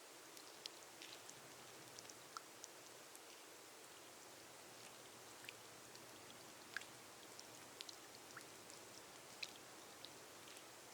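Gentle rain on a glass greenhouse roof: a soft, steady hiss with scattered individual drops ticking sharply at irregular moments.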